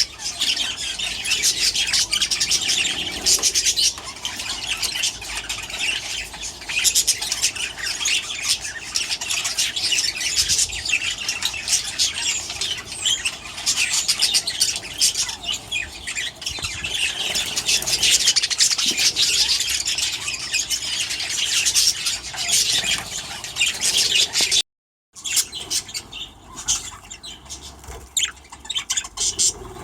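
A flock of budgerigars in an aviary chattering, chirping and squawking in a dense, continuous mass of calls. Near the end the sound cuts out for a moment and comes back as quieter chatter.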